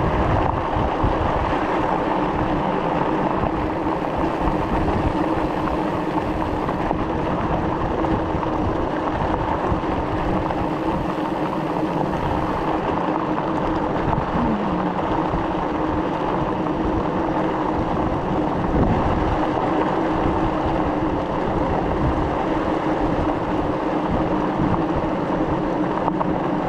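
E-bike riding at a steady pace on a smooth road surface: a constant rush of wind on the microphone and tyre noise, with a steady whine from the bike's electric drive.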